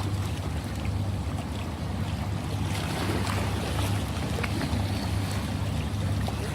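Ocean waves washing on a shore: a steady rushing surf with a deep low rumble underneath and faint crackling of foam and spray.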